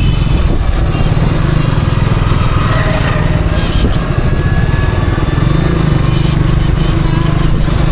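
Motorcycle engine running steadily while riding, with a dense low rumble.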